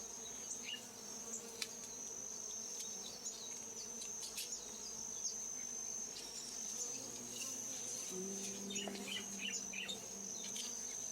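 Honeybee swarm buzzing with a steady hum, with single bees buzzing louder close by in the second half. A steady high-pitched insect tone and a few small rustling clicks run beneath it.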